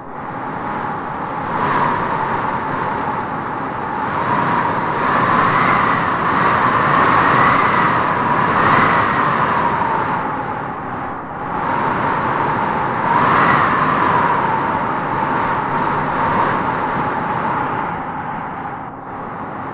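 Wind howling in gusts: a steady rush with a whistling howl that rises and falls, swelling strongest in the middle and again about two-thirds of the way through.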